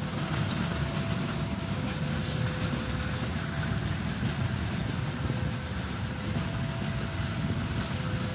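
Loaded ballast hopper wagons behind a KAI CC201 diesel-electric locomotive rolling slowly past, a steady rumble of wheels on rail. Over it a level-crossing warning sounds two alternating tones, low then high, each held about a second and a half.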